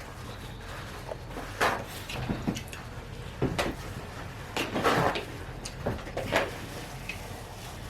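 Eating noodles with forks: short scattered bursts of forks clinking and scraping against the bowls.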